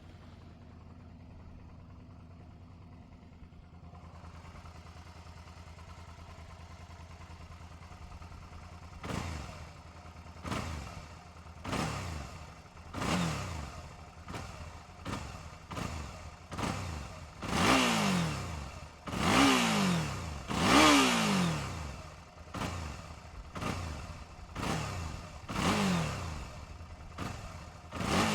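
Suzuki V-Strom 650's V-twin engine, just started, idling steadily through its exhaust. From about nine seconds in it is revved again and again: short throttle blips that rise and fall about once every second or so. The revs are loudest around the middle of the run.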